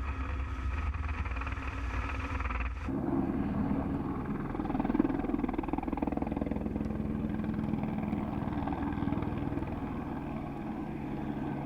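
Engine of a low-flying survey aircraft droning steadily, with an abrupt change in its sound about three seconds in.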